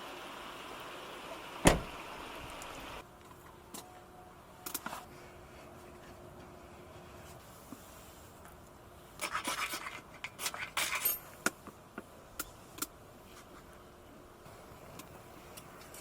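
Handling noises while setting up a campfire: scattered clicks and knocks, with bursts of rustling and scraping near the middle. A steady hiss, like flowing water, fills the first three seconds, cut by one sharp knock, then stops abruptly.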